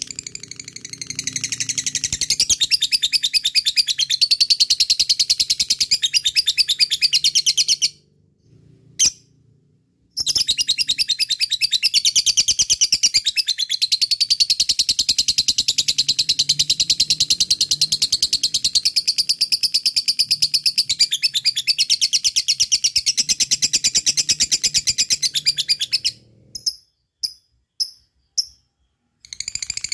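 Lovebird singing its long, very fast chattering trill (ngekek). The trill breaks off for about two seconds partway through, resumes, then ends in a few short separate calls.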